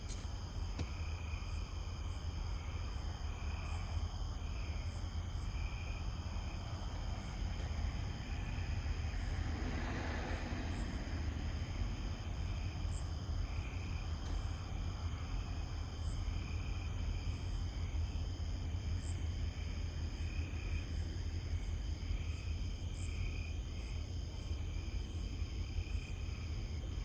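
Night insects, crickets among them, chirping in a steady pulsing chorus over a constant low rumble, with a brief swell of noise about ten seconds in.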